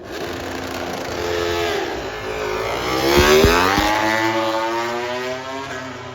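MotoGP racing motorcycle accelerating hard on a practice start, its engine revving up through the gears as it passes. The sound is loudest about three and a half seconds in, with a few sharp cracks, then fades away.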